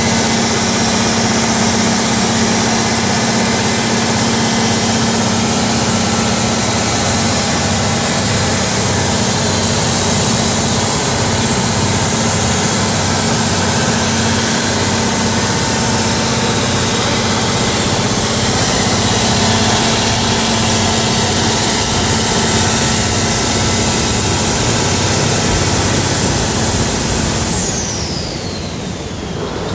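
Canal passenger boat's diesel engine running loudly and steadily under way, with a steady high whine. Near the end the engine eases off: the level drops and the whine falls sharply in pitch.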